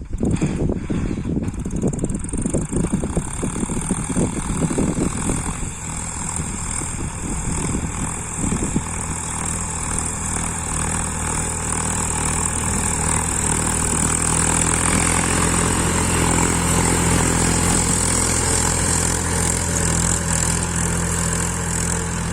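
Tractor engine running steadily, with heavy clattering and knocking for the first eight or nine seconds before the engine note takes over and holds even.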